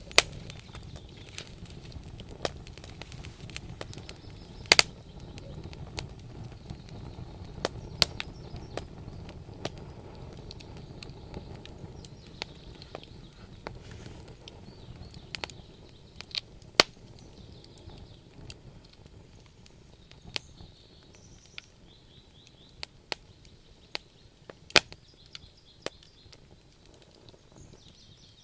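Wood campfire burning: a low rumble of flame under irregular crackles and sharp pops from the logs, with a few louder snaps. The rumble eases off in the second half.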